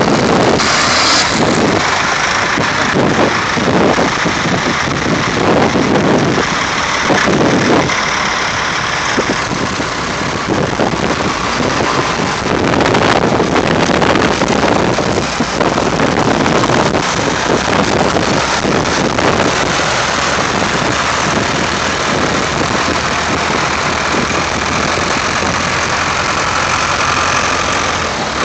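Vintage tractor engines running as tractors drive off in a line, the sound changing in the first several seconds and then steadier.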